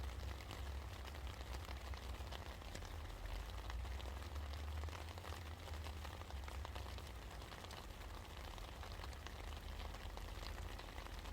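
Steady rain falling: a constant patter made of many small drop ticks, with a low rumble underneath.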